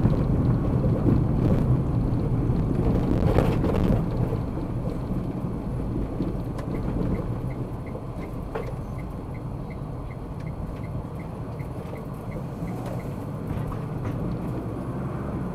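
Car running on the road, heard from inside the cabin: a steady rumble of tyre and engine noise, louder for the first four seconds and then easing off. From about six seconds in, a light, even ticking about two to three times a second, typical of the turn-signal indicator, runs for several seconds.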